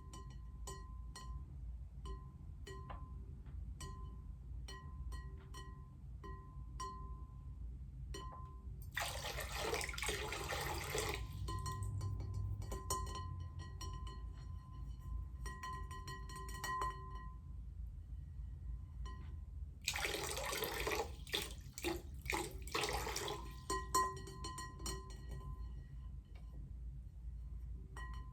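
Water poured into a bowl twice, each pour lasting about two seconds. In between, drops fall steadily into it about twice a second, each drop plinking with a short ringing tone.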